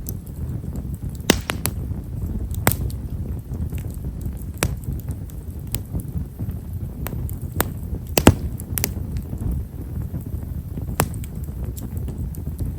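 Wood fire of tall stewartia (himeshara) logs crackling: scattered, irregular sharp pops, the fine, small crackle typical of this wood, over a low steady rumble. The loudest pop comes about 8 seconds in.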